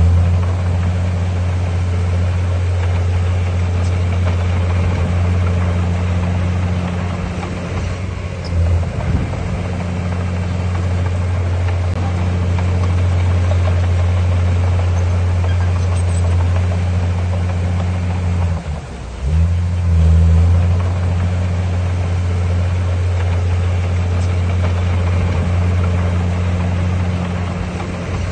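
Diesel engine of heavy earthmoving machinery running steadily with a deep drone. About two-thirds of the way through the drone dips briefly, then picks up again louder.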